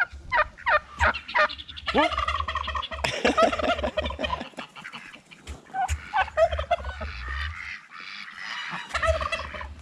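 Flock of backyard fowl calling: a quick run of short repeated calls, then a jumble of many overlapping calls, with a few more short calls near the end.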